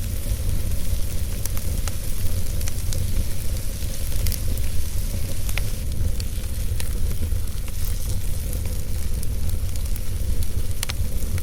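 Fireplace fire burning: a steady low rumble with scattered sharp crackles every second or so.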